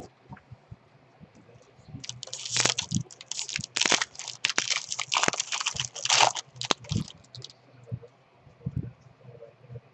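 Foil wrapper of a baseball card pack being torn open and crinkled, a dense crackling rustle for about five seconds in the middle, with scattered small clicks and handling noises either side.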